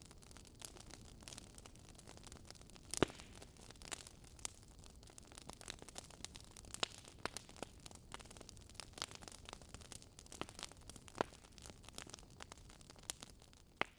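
Wood fire crackling: irregular sharp pops and snaps over a faint low hiss.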